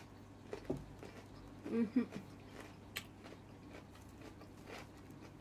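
Quiet chewing and mouth sounds of a person eating, with a short hum of the voice about two seconds in and a sharp click about three seconds in.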